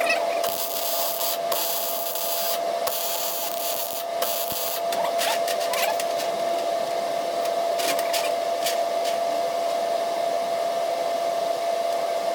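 Electric arc welding on scrap steel: a crackling, sizzling hiss that stops and restarts several times in the first few seconds, then runs on with sharp pops, over a steady hum.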